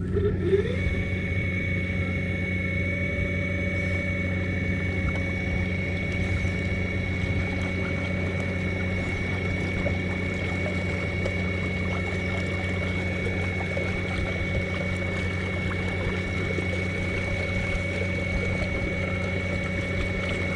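Fishing kayak's motor spinning up with a short rising whine, then running at a steady pitch with the kayak under way.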